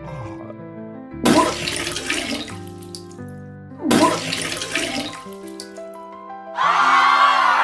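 Cartoon vomiting sound effect: two splashing, gushing bursts about two and a half seconds apart over background music. Near the end, a group of voices breaks out yelling and whooping.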